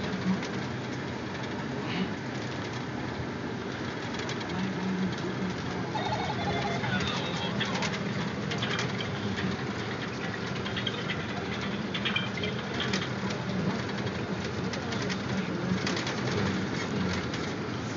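Truck driving along, heard from inside the cab: a steady engine hum and road noise, with scattered small clicks and rattles.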